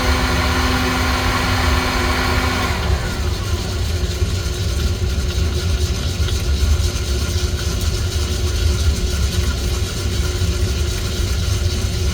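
An electric motor in coffee-roasting equipment runs with a steady whine over a low hum. About three seconds in, the whine cuts off and falls in pitch as the motor winds down, while a steady rushing noise carries on.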